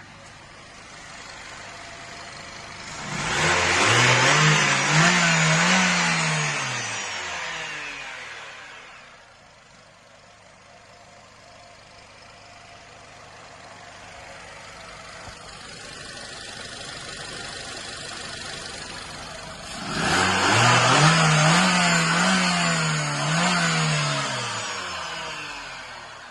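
Nissan X-Trail T31's QR25DE 2.5-litre four-cylinder engine idling and revved twice, about three seconds in and again about twenty seconds in. Each time the note climbs, holds for a few seconds with a slight wavering, then falls back to idle.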